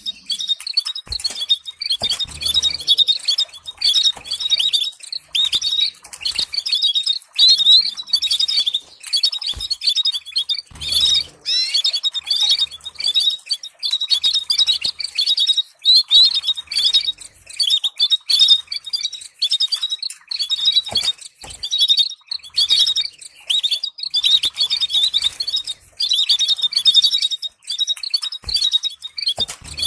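Domestic canary singing continuously: fast trills and chirps in long phrases broken by short pauses, played as a training song for young canaries.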